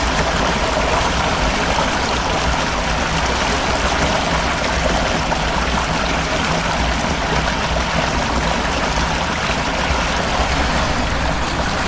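Fast-flowing floodwater rushing through a street, a steady loud rush of water.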